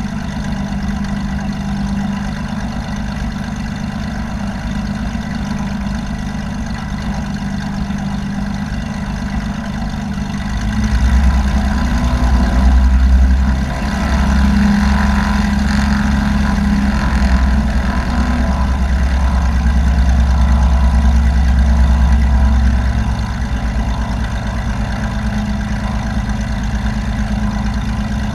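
Small airplane's engine running with a steady drone, joined about ten seconds in by a louder low rumble that lasts some twelve seconds before the steady drone returns.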